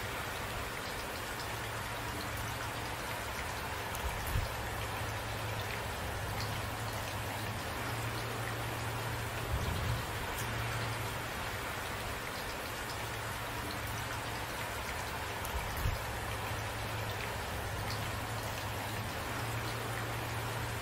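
Steady rain falling, an even hiss of drops, with a few brief low thumps through it.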